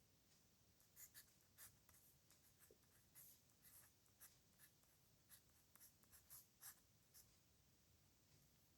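Faint scratching of a pen nib on paper: a series of short handwriting strokes that stop about seven seconds in.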